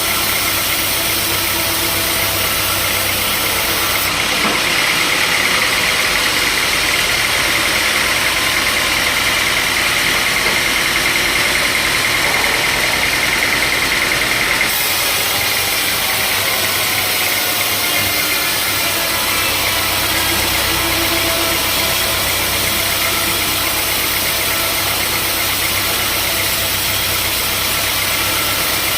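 Sawmill machinery running steadily, with a higher-pitched whine from about four seconds in until about fifteen seconds.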